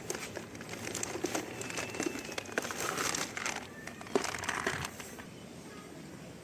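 Plastic packaging crinkling and rustling in irregular bursts with sharp clicks, stopping about five seconds in.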